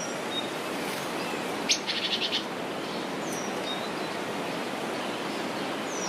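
Birds calling over a steady background hiss: a few short, high, down-sliding whistles, and a little under two seconds in, a sharp note followed by a quick run of about five chirps.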